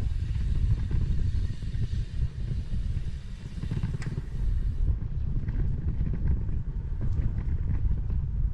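Wind buffeting the microphone of a moving bicycle's 360 camera, a steady low rumble of riding noise, with a lighter hiss over it for the first five seconds and a single sharp click about four seconds in.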